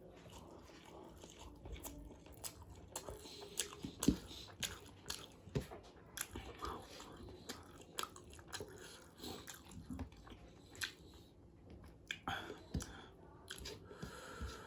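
Close-miked mouth sounds of eating chicken biryani: chewing and biting with wet smacks and occasional crunches, in irregular sharp clicks, the loudest about four seconds in.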